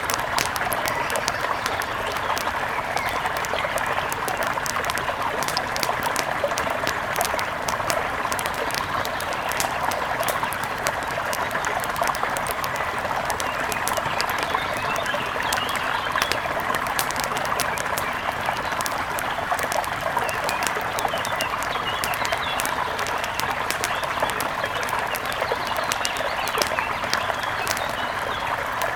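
Wood fire crackling with frequent sharp pops over the steady rush of a river.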